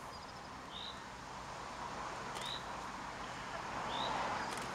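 A small bird chirping: three short, high single notes about one and a half seconds apart, over steady background noise.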